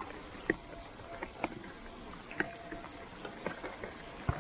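Rain hissing steadily over a wet artificial-turf football pitch, with scattered splashy footfalls and small knocks, and one sharp thud near the end.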